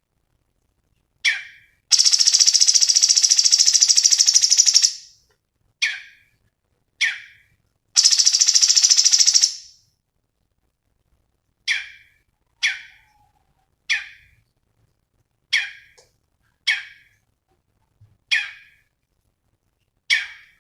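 Cucak cungkok songbird calling: sharp single chirps spaced about a second apart, broken by two long, rapid rattling trills, one about three seconds long early on and a shorter one about eight seconds in.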